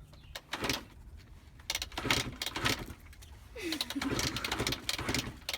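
Repeated kick-starting of a cold Kawasaki KX65 two-stroke dirt bike: the kick-starter and engine turning over in several clattering strokes without the engine firing.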